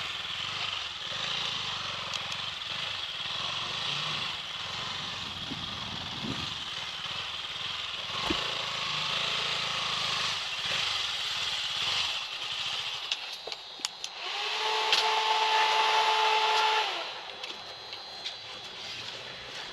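Motorcycle riding along with steady engine and wind-rush noise. Near the end a loud steady tone sounds for about two and a half seconds, then cuts off.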